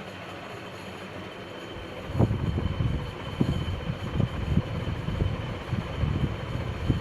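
Econo ceiling fan running with a steady hum. From about two seconds in, irregular low rumbling thumps join it.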